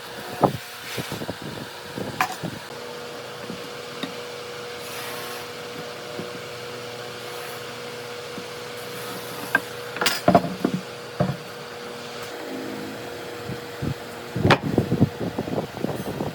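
Intermittent wooden knocks and taps of wood and tools being handled, bunched about ten seconds in and again near the end, over a steady fan hum.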